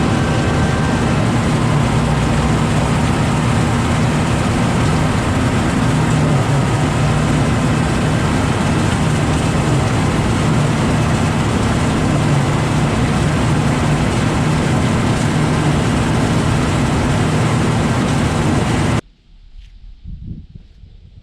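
Tractor engine running steadily under close pickup. It cuts off suddenly near the end, leaving quieter scattered sounds.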